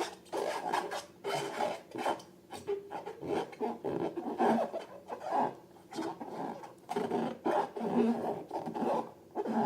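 Slime being worked by hand: a quick, irregular run of rubbing, squishing and scraping strokes, one after another without a pause.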